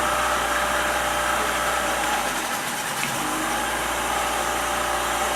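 Tour boat's outboard motor running steadily as the boat cruises along.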